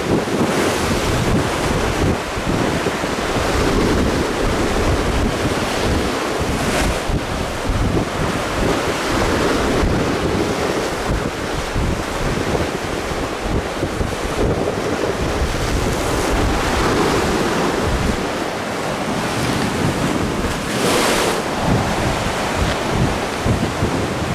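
Strong wind buffeting the microphone over sea swell surging against shore rocks, a steady loud wash with two brief louder surges, about a third of the way in and near the end.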